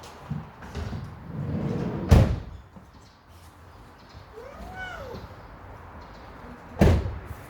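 Two loud thuds about five seconds apart, with a short rising-and-falling animal call between them.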